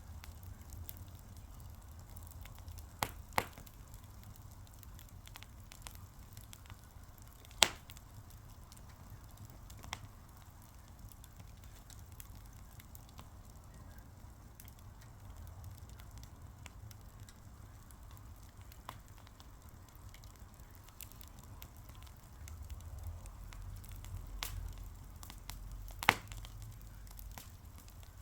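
Fire burning with sparse crackling: a few sharp pops, two close together about three seconds in, the loudest about eight seconds in and another strong one near the end, over a steady low rumble.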